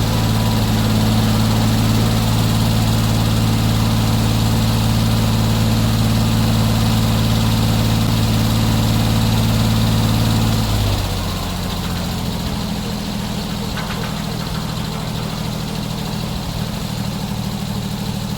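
Sawmill engine running steadily, then throttling down to a lower, quieter idle about eleven seconds in.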